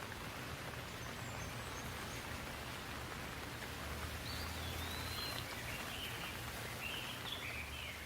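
Steady rain falling, with a songbird singing short warbling phrases from about four seconds in.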